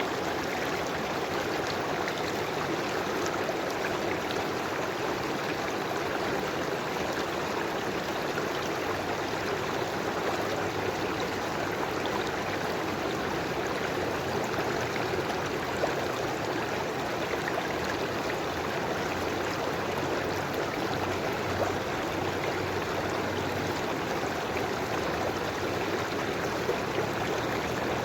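River water flowing steadily, an even rushing and babbling without let-up.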